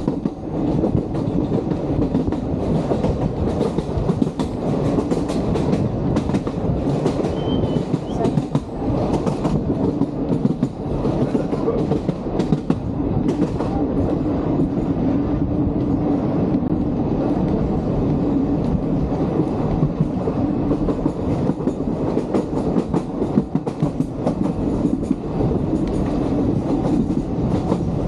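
Vintage train of the Sóller railway running along the track, heard from on board: a steady rumble of wheels on rails with continual clatter and rattling.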